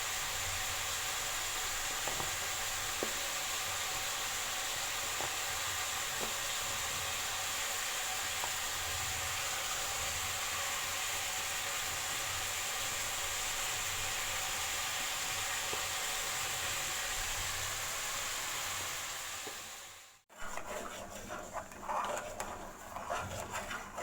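Food sizzling steadily as it fries in a hot pan, with scattered faint ticks. It fades out about twenty seconds in.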